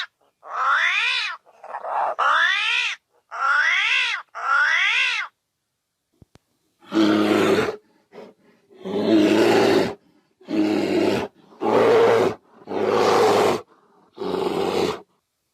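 A series of animal calls. First come five pitched calls that each rise and then fall. After a short pause come about seven loud, rough calls, each roughly a second long.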